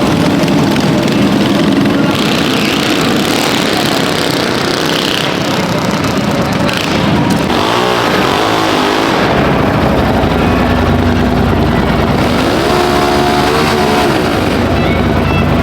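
A loud engine running, with its pitch rising and falling twice like brief revs, over a dense background din.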